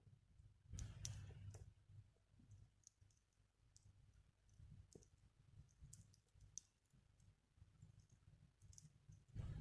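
Wood fire burning quietly in a small fire pit, with faint, scattered crackles and pops from the burning wood over a low rumble that swells about a second in and again near the end.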